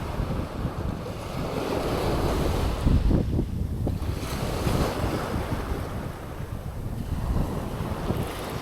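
Wind buffeting the microphone over waves breaking on a sandy beach, a steady rushing noise that swells and eases.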